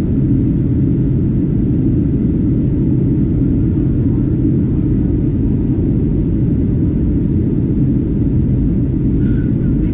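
Steady low rumble inside an airliner cabin as the jet taxis on the ground after landing.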